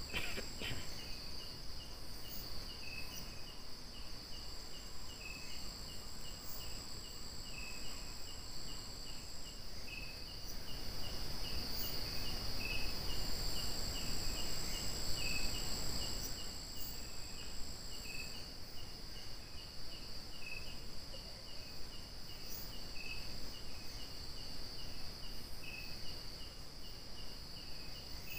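Night insects: a steady, high, shrill trill with a second cricket chirping rapidly, about three chirps a second, beneath it. A broad rush of noise swells through the middle and fades again.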